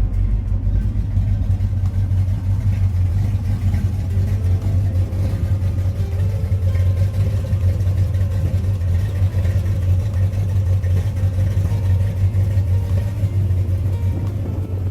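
A car engine running steadily, with a strong, even low note.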